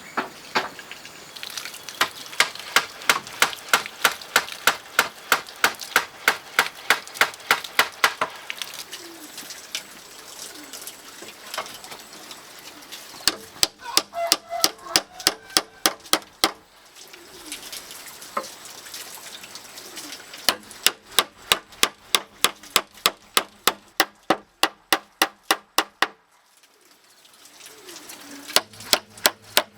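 A hand tool striking hard material, about three sharp blows a second, in runs of several seconds broken by short pauses.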